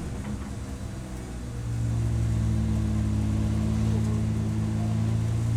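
Race car engine heard from on board, running quieter off the throttle. About a second and a half in it comes back on power and holds a steady, louder note.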